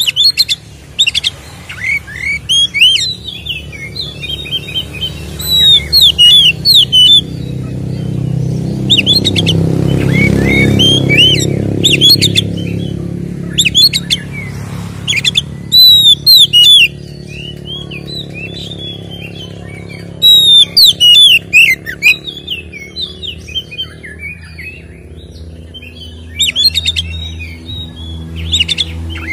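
Oriental magpie-robin (kacer) singing in loud, repeated bursts of rapid sweeping whistles and chattering notes: the full, aggressive fighting song used to provoke other magpie-robins. A low rumble swells under the song about ten seconds in.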